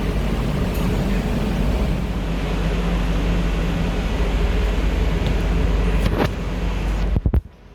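York YS9FYC024BAM-FX air conditioner running: a steady fan rush over a low hum. Near the end a couple of sharp clicks, then the level drops suddenly.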